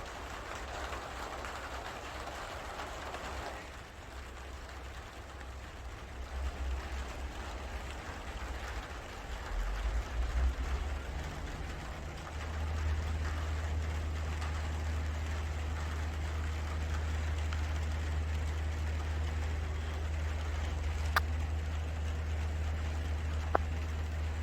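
Rain falling in a steady patter, heavier for the first few seconds. About halfway through, a steady low hum sets in under it, and near the end there are two sharp clicks.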